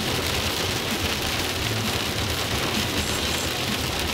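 Heavy rain hitting a car's windshield, heard from inside the moving car on a wet highway, over a steady low road rumble.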